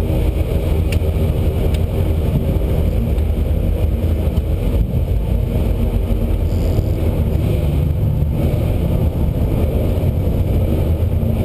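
Lotus Exige Cup 260's supercharged 1.8-litre four-cylinder running at low, steady revs, heard from inside the cabin as a loud, even low rumble with no revving.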